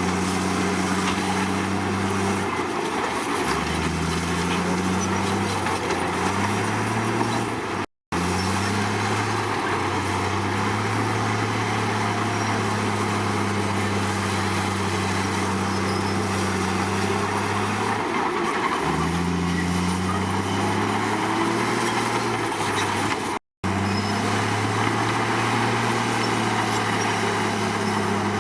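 Crawler bulldozer's diesel engine running steadily; its pitch drops and works back up twice as the revs change under load. The sound cuts out to silence for an instant twice.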